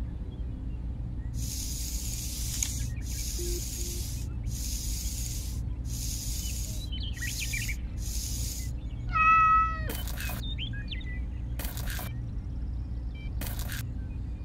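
A cat meows once, a short falling call about two-thirds of the way through, and it is the loudest sound here. Before it come six short bursts of hiss in a row, and after it a few brief scratchy noises, all over a low steady hum.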